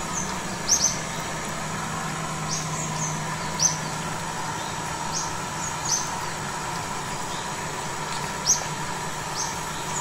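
A small bird chirping over and over: short, high chirps that drop in pitch, every second or two, over a steady low hum.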